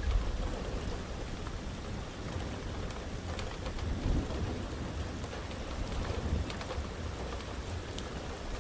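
Heavy rain falling steadily, with scattered sharp drop hits and a low rumble of thunder that eases off about a second in.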